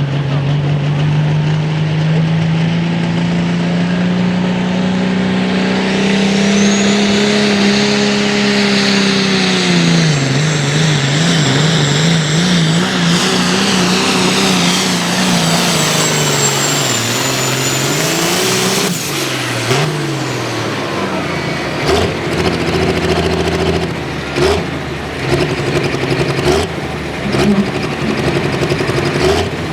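Light pro stock pulling tractor's turbocharged diesel engine running hard under load. Its note climbs steadily for several seconds, then wavers up and down rapidly as the revs bog and recover, and falls away about two-thirds of the way in. A scatter of sharp knocks and clicks follows near the end.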